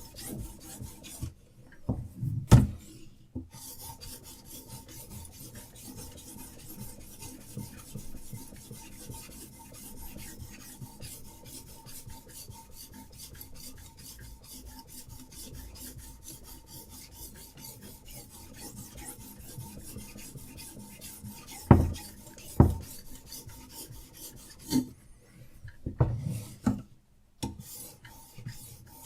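Diamond sharpening stone on a Hapstone RS guided sharpener rasping in rapid strokes along a knife's steel blade. It stops briefly a few times, and there are a few sharp knocks, two of them close together past the middle.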